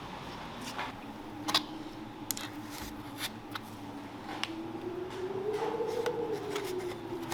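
Scattered sharp clicks and taps over a pitched hum that rises slowly and falls back, highest about six seconds in.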